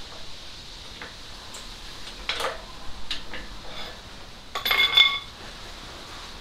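Metal tools and parts clinking and knocking during work fitting a gearbox to an engine. There are scattered single knocks, then a louder, ringing metallic clatter about five seconds in.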